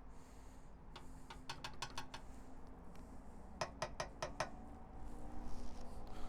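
Two quick runs of small sharp ratcheting clicks, about six clicks each, a couple of seconds apart, like a buckle or strap being ratcheted tight. A faint low steady hum comes in near the end.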